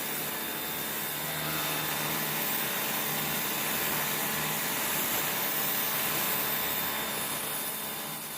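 Kärcher K2 electric pressure washer running with its turbo nozzle: a steady hiss of the water jet over the motor's hum.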